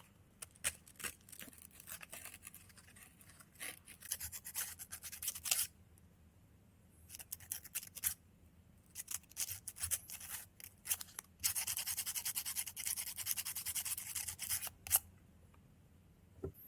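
Fine 400-grit sandpaper rubbed rapidly back and forth on a motorcycle ignition switch's metal contacts, in several bursts of scratchy strokes with the longest run near the end, then a sharp click.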